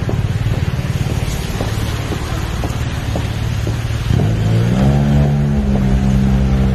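Street traffic on a wet road: a vehicle engine running low and steady, then about four seconds in an engine revs up, its pitch rising and then holding.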